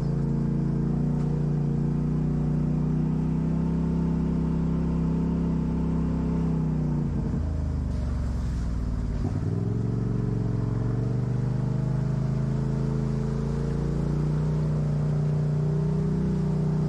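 Off-road vehicle's engine running steadily. About seven seconds in its revs drop, then climb back a couple of seconds later.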